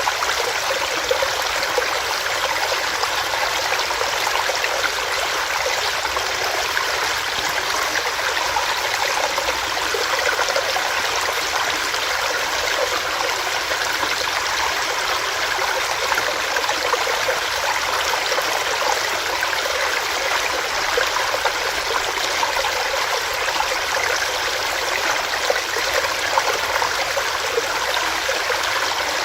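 Small rocky stream with water running and splashing over rocks in a steady, unbroken rush.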